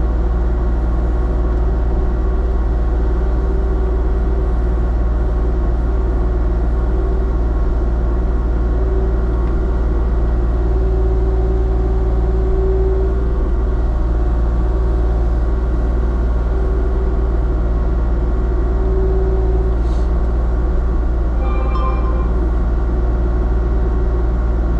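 Diesel engine of a compact excavation machine running steadily under load, heard close up from the operator's position. A steady hydraulic whine strengthens at times.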